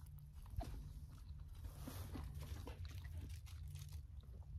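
A person chewing a mouthful of pasta close to the microphone, with small soft clicks and smacks. A steady low rumble of wind on the microphone lies under it.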